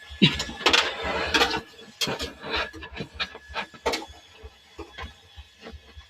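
Irregular knocks and clicks from tools working on the car body's floor panels, several a second and loudest in the first two seconds.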